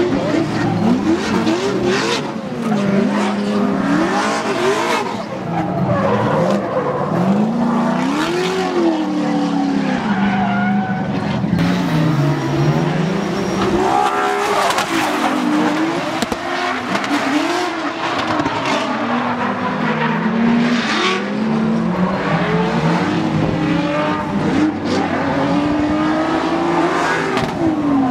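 Drift car engine revving up and down again and again at high revs, with tyres squealing as the car slides.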